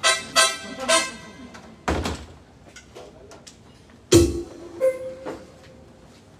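Electronic keyboard sounding a few quick pitched notes, then two isolated thumps about two seconds apart, the second followed by a short held note, with gaps between. These are stop-start sounds from a keyboard whose player is unfamiliar with it.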